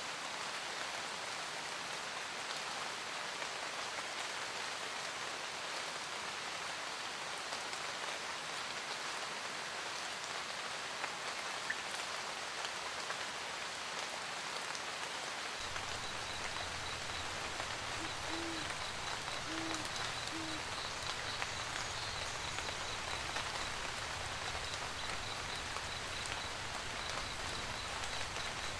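Steady rain pattering, with an owl hooting three times about two-thirds of the way through. A low rumble comes in just past the middle, and a faint high-pitched chirp repeats evenly through the second half.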